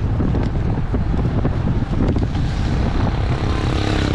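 Wind buffeting a bike-mounted camera's microphone at racing speed: a loud, steady rumble. A faint steady tone comes in near the end.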